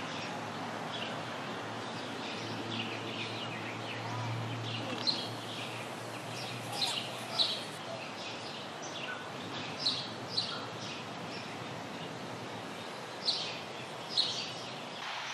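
Birds chirping in short calls, a handful of separate chirps over about fifteen seconds, over a steady outdoor background hiss.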